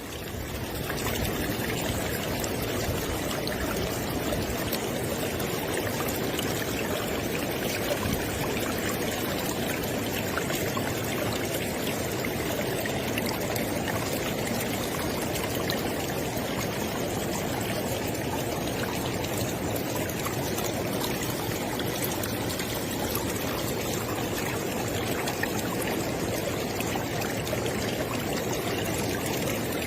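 River water flowing steadily, a continuous rushing of stream water. It cuts in suddenly out of silence and reaches full level within about a second.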